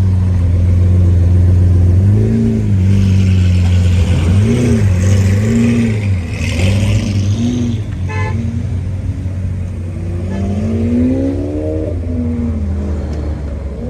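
Car engine idling, then revved in several short blips, each rising and falling in pitch, and near the end one longer rev that climbs and drops back.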